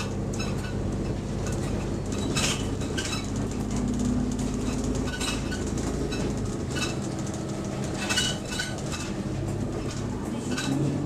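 Bus engine running, heard from inside the passenger saloon, with loose interior rattling and sharp clicks every second or so. Near the end the engine note rises as it revs up.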